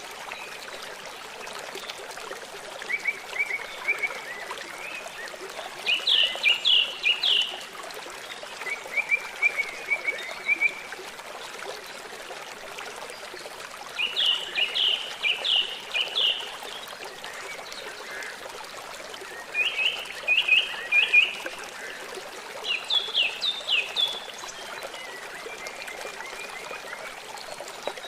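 A songbird repeating short phrases of several quick falling notes, about seven phrases a few seconds apart, over a steady rush of trickling, running water.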